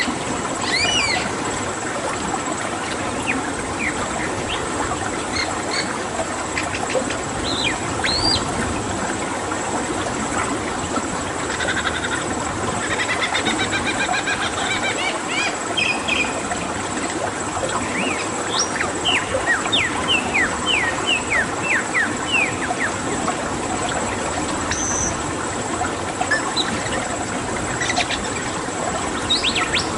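Bird calls over a steady rush of flowing water: scattered short chirps, a trilling phrase midway, then a quick run of downward-sweeping whistles.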